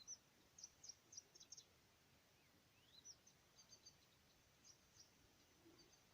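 Faint, high bird chirps scattered through near silence, with a rising whistled call about three seconds in.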